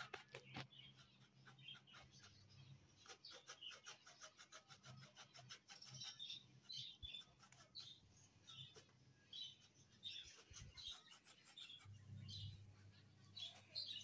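Faint chirping of small birds, many short high chirps, with scattered light clicks over a low hum.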